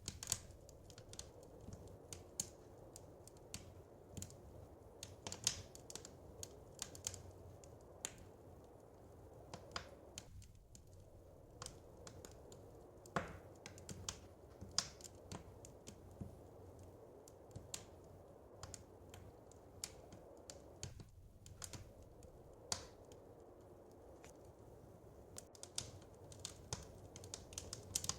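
Wood fire crackling: irregular sharp pops and snaps, some in quick clusters, over a low steady background hiss.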